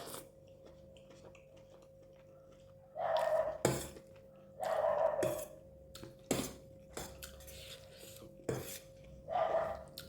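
Close-miked mukbang eating: cutlery clicking against a plate several times, between bursts of chewing. A faint steady hum sits under it.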